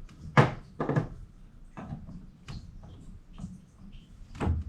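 A few sharp knocks and clicks of hard objects being handled, the loudest two close together about half a second in, another near the end, with lighter ticks between.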